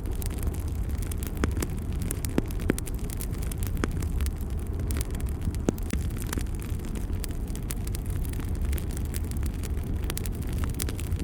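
Wood fire burning in a fireplace: a steady low rumble of flames with frequent small crackles and pops. A few louder pops come a little past two seconds and again before six seconds.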